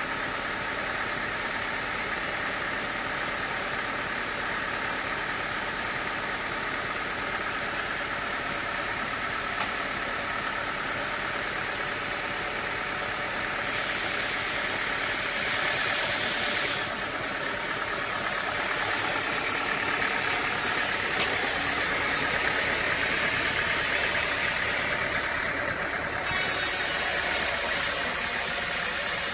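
Sawmill machinery running steadily, an engine-like hum with a thin steady whine. Near the end a louder hissing noise sets in suddenly.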